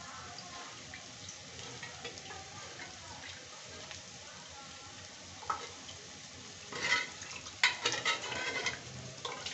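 Sliced onions and tomatoes frying in oil in a kadhai for a dal tadka: a steady, faint crackling sizzle with scattered pops. From about seven seconds in, a run of loud metallic scrapes and knocks cuts in over it.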